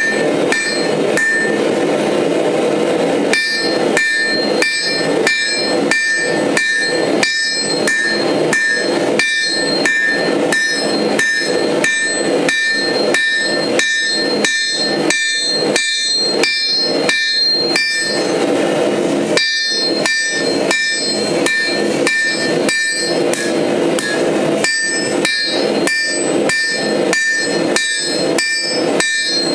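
Hand hammer blows on steel over an anvil while forging, about two blows a second, most with a bright metallic ring. The first few blows sound duller without the ring, and there is a short break in the hammering a little past halfway.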